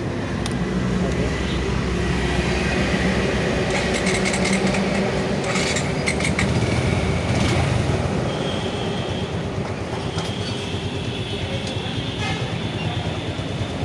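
Motorcycle engine idling steadily without throttle after an oil change, left running to circulate the fresh oil, with a few light clicks around the middle.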